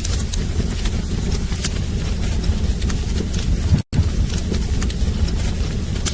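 Wood fire burning in a fireplace: a steady low rumble with scattered crackles and pops. The sound cuts out completely for a split second about four seconds in.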